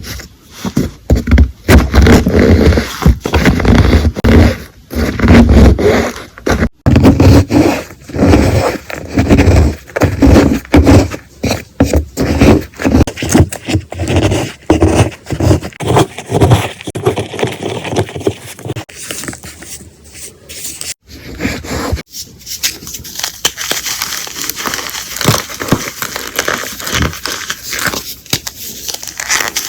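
Blocks of gym chalk being crushed and crumbled: a fast, uneven run of loud crunches with heavy thuds. About two-thirds of the way in it changes to a finer, steadier crackling of the crumbling powder.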